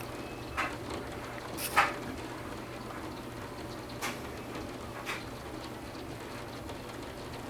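Rain falling steadily as an even hiss, with four separate sharp taps of water drops, the loudest about two seconds in.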